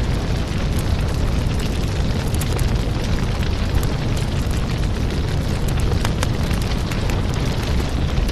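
Firewood burning: a steady low rumble of the fire with frequent sharp crackles and pops of the wood.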